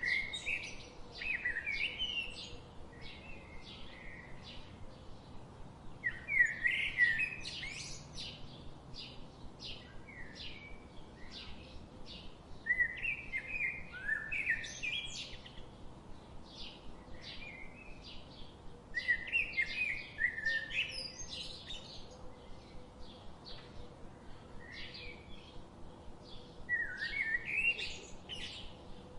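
Songbirds singing in a forest: a warbling song phrase repeats about every six to seven seconds, with short chirps and tweets in between.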